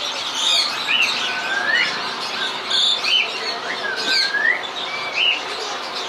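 Caged birds calling: repeated short whistled notes that swoop up in pitch, about one a second, broken by several brief harsh squawks.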